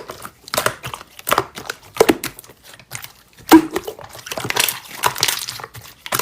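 Slime being squished and kneaded by hand, giving irregular sticky crackles and pops.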